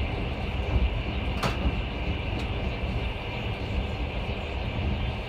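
Steady rumble and hiss inside a long-distance passenger train carriage, with a sharp click about a second and a half in.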